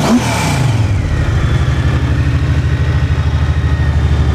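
2004 Honda Rune's liquid-cooled 1800cc flat-six engine with 3-into-1 exhausts: a throttle blip right at the start that settles within about a second into a steady idle.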